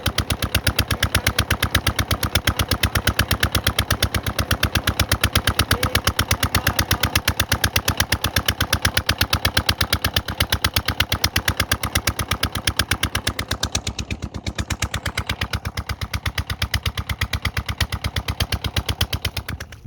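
Engine of a river launch boat running with rapid, even exhaust beats in the manner of a slow-revving single-cylinder diesel. It gets somewhat quieter about fourteen seconds in.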